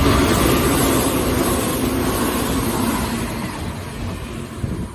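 Hanshin 8000 series electric train running past at speed: the noise of its wheels on the rails and its motors, loudest at first and fading as it goes away.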